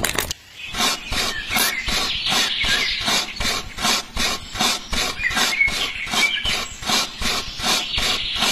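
Rhythmic rasping strokes, about three to four a second, like a hand tool scraping or filing back and forth.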